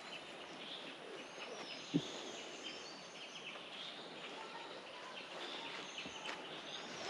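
Forest ambience: birds chirping and whistling short calls over a steady background hiss, with a single sharp knock about two seconds in.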